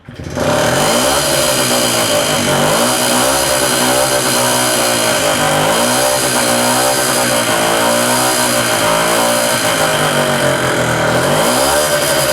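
Puch Maxi S moped's single-cylinder two-stroke engine, fitted with an Airsal 38 mm 50 cc cylinder kit, revving up and down over and over. It cuts in suddenly right at the start and is loud throughout.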